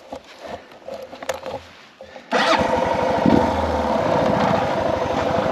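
Suzuki DR650's single-cylinder engine starting about two seconds in and settling into a steady idle. A few light clicks come before it.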